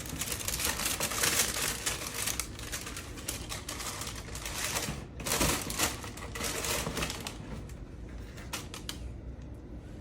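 A sneaker box being opened and its packaging handled: a dense run of rustling, crinkling and scraping for about seven seconds, then a few separate clicks.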